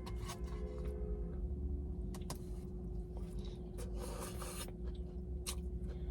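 Quiet eating sounds: chewing with scattered small clicks and scrapes, over a steady low hum.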